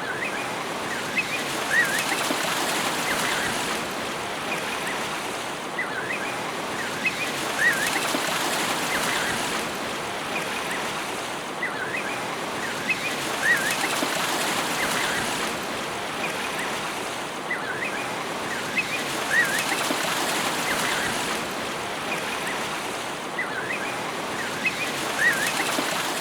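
Nature-sound ambience: a steady rush of water with short, high bird chirps that come back in the same pattern about every six seconds, as in a looped recording.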